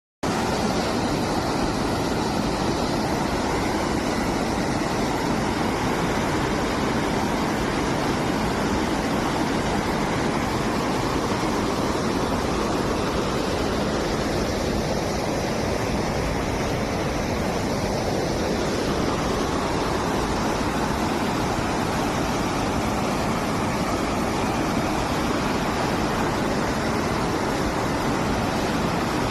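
Flash-flood water rushing in a swollen stream, a loud, steady, unbroken rush.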